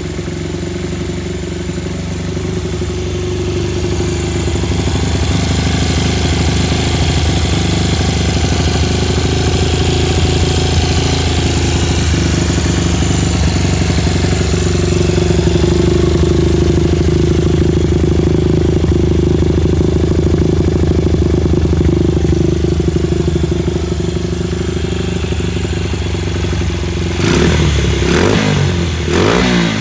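Honda Ape 50's small single-cylinder four-stroke engine idling steadily, then revved twice in short throttle blips near the end.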